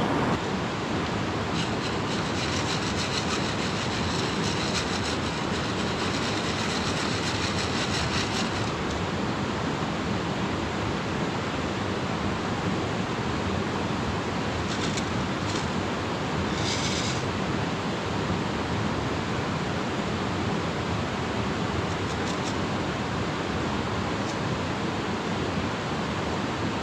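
Steady rush of a fast river running over rocks, with faint clicking for several seconds near the start.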